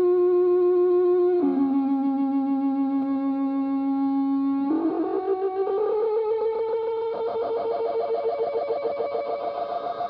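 Controlled acoustic feedback from a homemade feedback instrument: a toy microphone feeding its own speaker through an echo/delay and filter circuit. It sings as a steady, buzzy pitched tone that drops to a lower note about a second and a half in. Just before the middle it jumps up to a higher, gliding tone that wavers with a fast pulsing echo.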